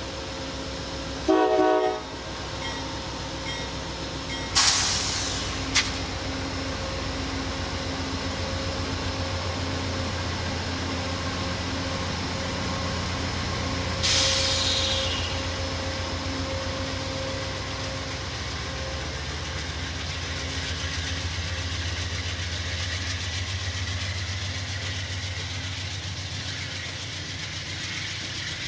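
Amtrak passenger train going by: a short horn blast about a second in, then a GE P42 diesel locomotive's engine running as it passes, followed by the cars rolling along the rails, with a few sharp bangs along the way.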